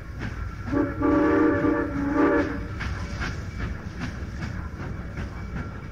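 A train whistle blows a steady chord for about two seconds, starting just under a second in. Under it and after it comes the rhythmic clickety-clack of a moving train's wheels on the rails.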